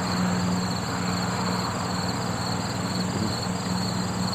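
Crickets chirping in a steady evening chorus over a constant low mechanical hum.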